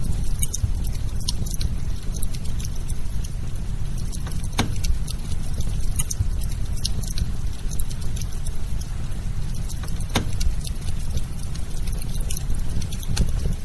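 Firewood burning, crackling with scattered sharp pops, a few of them loud, over a steady low rumble.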